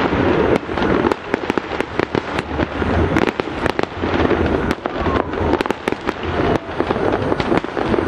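Fireworks show: many loud bangs and crackles of bursting fireworks, coming thick and irregular, several a second, over a continuous rumble.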